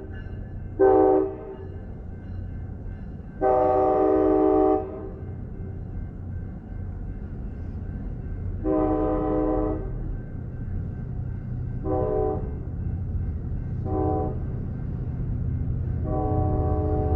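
Diesel locomotive air horn sounding a series of blasts over the steady low rumble of a passing train. There is a short blast about a second in, a longer one around four seconds, another near nine seconds, two brief toots, and a last blast starting near the end.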